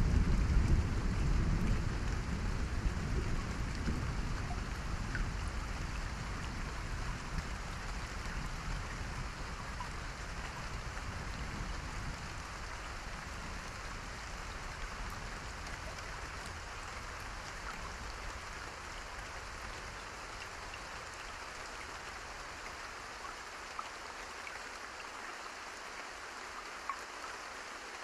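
Steady rain falling, with a low rumble of thunder at the start that slowly dies away over the first fifteen seconds or so, leaving only the even hiss of the rain.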